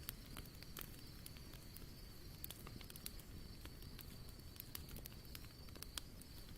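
Wood campfire crackling with irregular small pops and a few sharper snaps, over a faint steady high tone.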